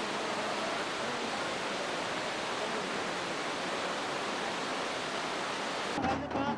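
Steady rushing noise with no rhythm or pitch. Music cuts in abruptly near the end.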